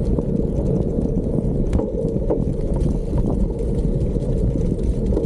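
Steady wind buffeting on the microphone over the rumble of bicycle tyres rolling on gravel, with scattered small clicks and rattles.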